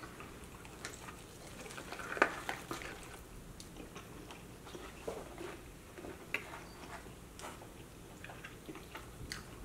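Close-up eating sounds: chewing and biting into sauced chicken wings and fries, with scattered wet mouth clicks and smacks. One louder click about two seconds in.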